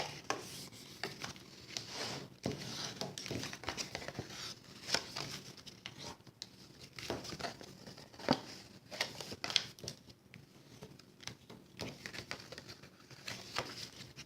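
Cardstock being folded along its score lines and creased with a folder: irregular paper rustles, crinkles and small clicks of card bending and being smoothed down.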